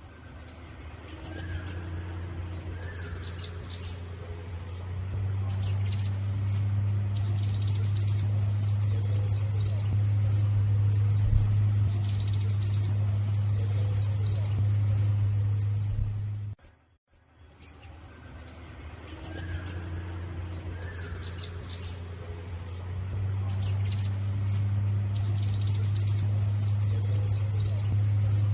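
Black sunbird (Leptocoma sericea) singing: rapid runs of very high, thin chips and short trills, over a steady low hum. The song breaks off briefly just past the middle and starts again.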